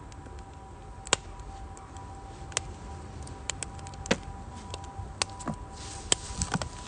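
Firewood burning in a Uniflame Nature Stove Large, crackling with irregular sharp pops and snaps, a few a second, over a low rumble. A faint steady high tone runs underneath.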